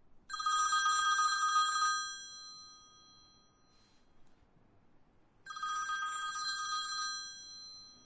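Telephone ringing twice: two rings roughly five seconds apart, each lasting a little under two seconds before dying away.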